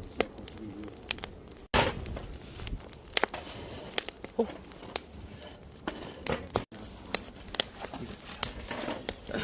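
Campfire wood crackling, with irregular sharp pops and snaps over a low hiss of burning. The sound cuts out for an instant twice.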